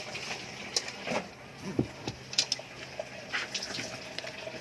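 Wet eating sounds, chewing and smacking, with several short, sharp clicks.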